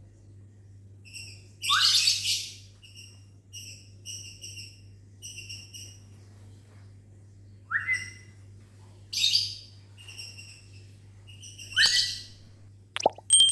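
Lovebirds calling: runs of short, quickly repeated chirps broken by several loud, shrill screeches, some of which start with a quick rising note.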